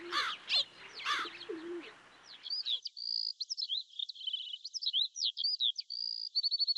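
Birds chirping and twittering: a few calls in the first two seconds, then a busy run of quick high chirps, ending in a short rapid trill.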